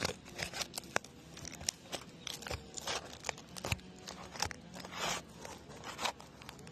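Roof shingle being pried up to break its seal: irregular crunching and scraping with scattered sharp clicks as the tool works under the shingle.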